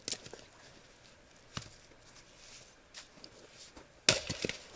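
Wooden knocks from splitting and handling firewood: a few faint clicks and knocks, then a sharp knock about four seconds in followed by a quick run of smaller knocks.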